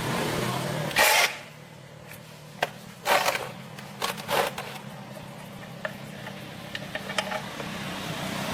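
A steady low machine hum, with two short hissing bursts and scattered sharp clicks.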